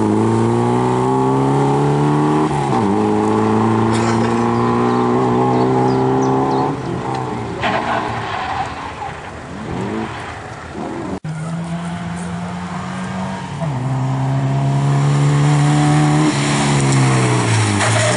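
Moskvich rally car engines run hard under acceleration: one climbs in pitch, drops at a gear change about two and a half seconds in, and pulls again before fading. Another car then accelerates, shifts about halfway through, and revs up to its loudest near the end.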